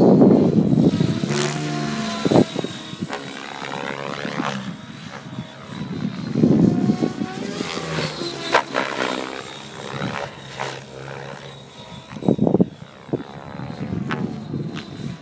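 Align T-Rex 700E electric RC helicopter with an 800MX motor in flight: its rotor and motor noise swells and fades as it passes close, loudest at the start, about six seconds in and about twelve seconds in, with a sweeping rise and fall in pitch on each pass.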